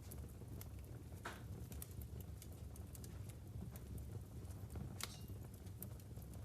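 Wood fire burning in a fireplace: logs crackling with scattered sharp pops over a low steady rumble, a louder pop about a second in and another about five seconds in.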